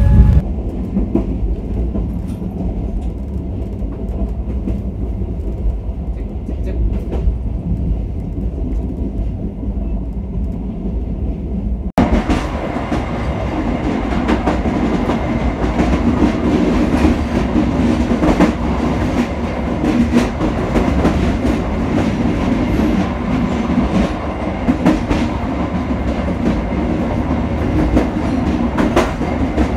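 Passenger train running on the rails: a steady rumble with the clickety-clack of wheels over rail joints. About twelve seconds in the sound cuts abruptly to a louder, fuller run with more frequent clacks.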